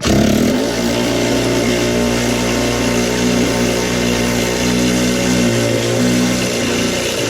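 An engine running steadily at a constant pitch, loud from the first moment and easing slightly near the end.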